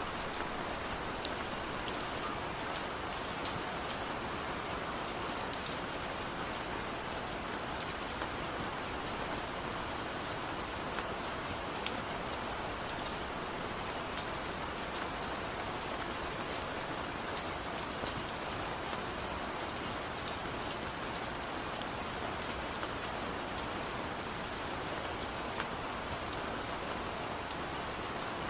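Steady heavy rain falling and pattering on surfaces, with many small drop ticks in the high range.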